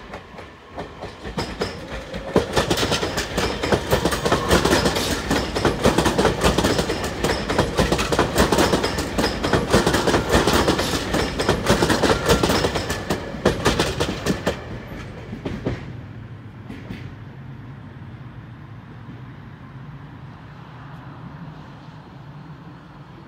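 Tobu Noda Line electric commuter train passing close by, its wheels clicking rapidly over the rail joints. The noise builds about two seconds in and dies away about fifteen seconds in, leaving a faint low hum.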